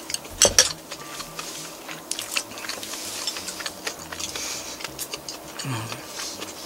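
A person chewing a mouthful of fried fish, with many short sharp clicks of biting and mouth sounds and a louder crunch about half a second in.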